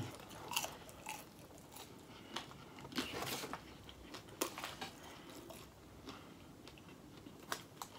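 A person chewing a mouthful of food close to the microphone: soft, scattered wet mouth clicks and smacks, with a few louder ones around the middle and near the end.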